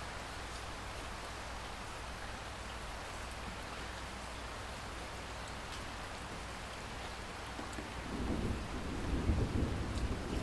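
Steady rainfall hissing, with a low rumble of distant thunder rolling in about eight seconds in and growing louder.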